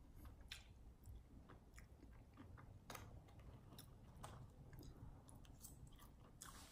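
Faint, close chewing of a mouthful of chili cheese fries, with scattered small sharp clicks.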